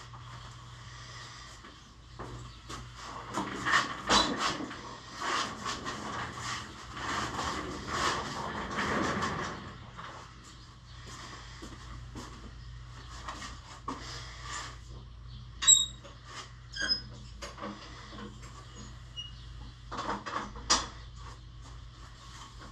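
Clattering and knocking of hard objects being handled, busiest for several seconds early on, with a sharp clink that rings briefly about two-thirds of the way through and a couple more knocks near the end.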